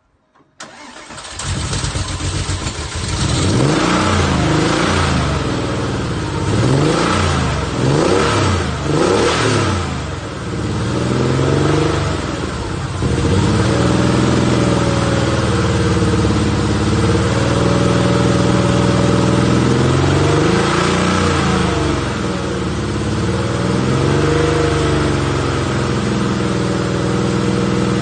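Porsche 964's air-cooled flat-six, freshly rebuilt, starting about half a second in. It is revved several times, then settles to a steady idle with two more blips of the throttle in the second half.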